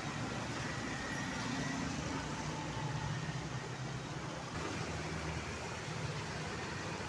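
Steady road traffic noise: engines and tyres of passing vehicles.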